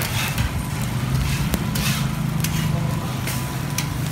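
Murtabak frying in oil on a flat griddle, sizzling, with sharp clicks and scrapes of a metal spatula on the griddle, over a steady low hum.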